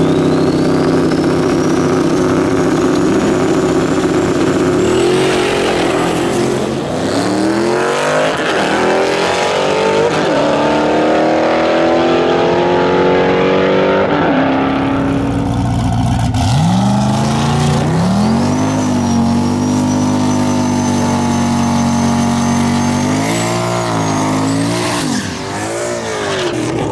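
Twin-turbo 5.3L V8 under hard acceleration, its pitch climbing and dropping through several gear changes, with a high turbo whistle rising over the engine early on and again in the later pull. A second pull starts about 16 seconds in.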